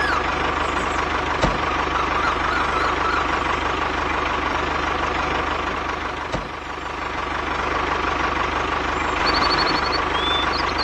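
A small tractor's drive running steadily, with a constant whine over a fine low pulsing, broken by two sharp knocks about a second and a half and six seconds in. Near the end come a few brief high chirps.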